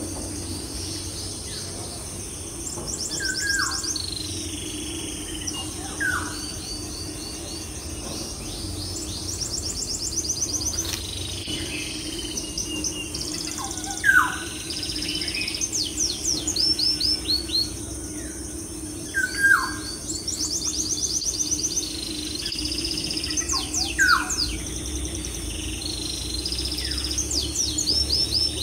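Small birds chirping, with fast high trills and repeated short down-slurred whistles, over a steady low hum.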